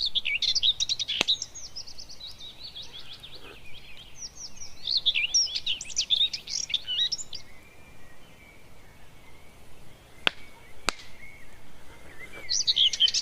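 Forest birds singing in fast, chattering runs of high chirps, in three bursts with pauses between. A few sharp clicks are heard, two of them about ten seconds in.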